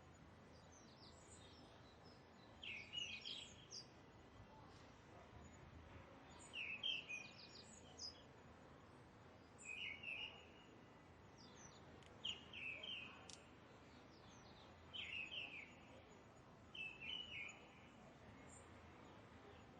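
Bird song: short, bright chirping phrases repeated about every two to three seconds, over a faint steady outdoor hiss.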